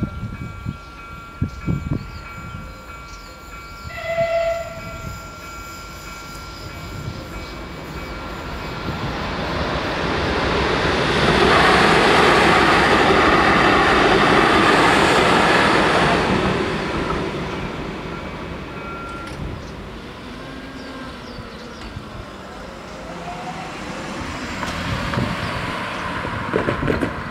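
Level-crossing bells ringing steadily while a Metrovalencia electric train passes over the crossing, loudest from about eleven to sixteen seconds in. A short horn note sounds about four seconds in. The bells stop about nineteen seconds in, and a car drives up near the end.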